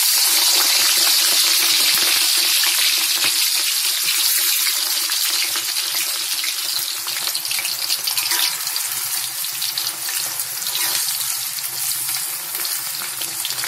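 Eggplant slices frying in hot oil in a wok, the wet slices just added: a loud, dense sizzle full of fine crackles that eases off a little over the seconds.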